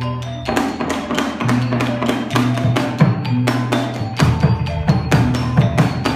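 Percussion music: quick, uneven sharp strikes over a steady low tone, with short pitched ringing notes among them.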